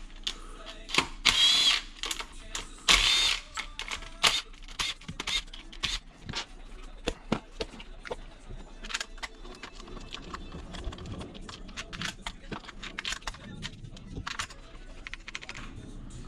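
A cordless power tool runs in two short bursts with a whine, about a second in and about three seconds in, followed by scattered clicks and taps of hand tools and sockets. This is spark plug removal for a plug check on a bogging Yamaha TR-1 WaveRunner engine.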